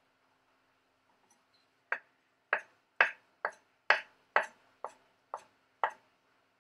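A series of about ten sharp taps or knocks, roughly two a second, starting about two seconds in.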